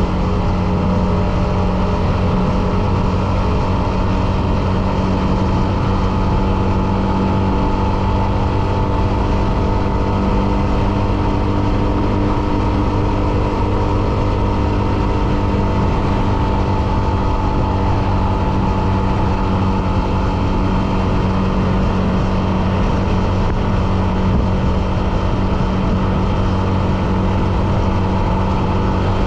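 Hero Xtreme 125R's single-cylinder engine running steadily under way, its pitch holding nearly constant.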